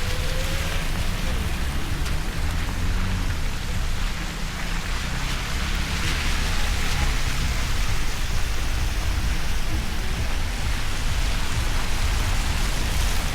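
Steady rain falling, an even hiss with a strong low rumble underneath.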